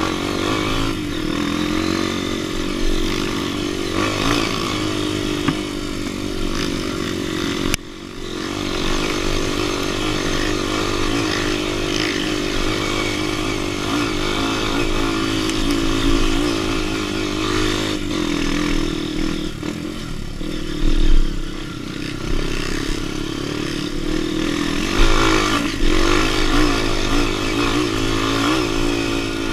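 Off-road motorcycle engine running under throttle, its revs wavering up and down as it rides a trail. The sound drops out briefly about eight seconds in, and there are louder surges about 21 and 25 seconds in.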